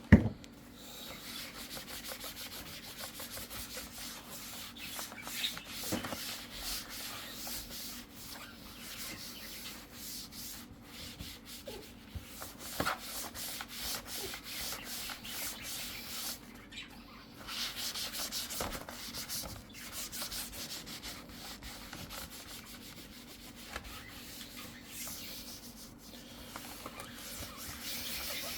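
Rapid rubbing strokes of a wipe scrubbing clean the underside of an HP Pavilion G6 laptop, going on with short pauses. A sharp knock right at the start.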